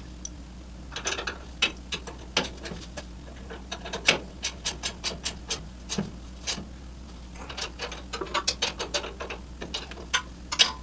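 Hand ratchet wrench clicking in short runs of strokes as a motor mount bolt is worked, part of adjusting the mount to level the engine.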